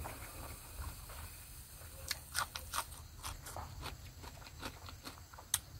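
Close-up chewing of a mouthful of rice and pork: a run of short, sharp mouth clicks and crunches that come thicker from about two seconds in, with one loud click near the end.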